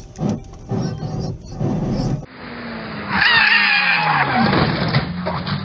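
Car tyres squealing loudly in a skid for a couple of seconds, the squeal wavering in pitch, after a few seconds of short, irregular road and cabin noises.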